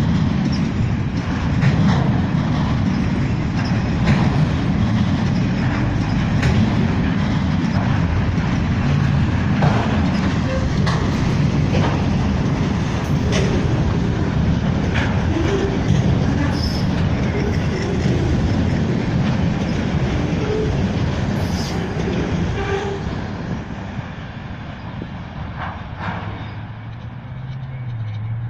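Freight train's autorack cars rolling past: a steady rumble of steel wheels on rail, with the clickety-clack of wheels over rail joints. The sound drops away near the end as the last cars go by.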